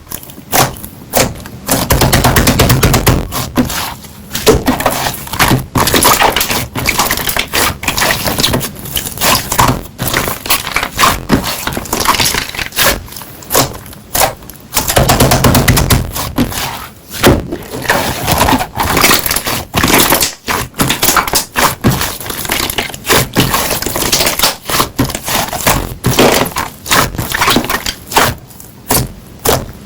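Hands squishing and pressing slime, with many quick pops and crackles from the slime and occasional heavier presses.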